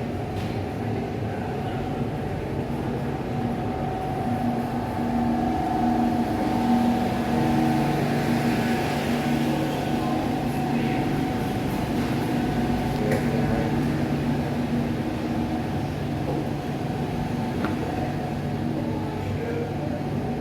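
Steady machine drone holding several unchanging tones, like a running engine, over city street noise.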